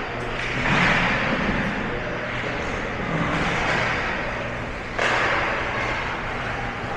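Ice rink game noise: a steady wash of crowd and on-ice sound, with one sharp bang about five seconds in.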